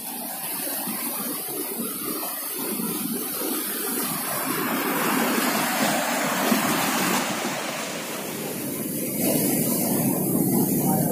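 Rushing noise of a waterfall, swelling and easing in loudness.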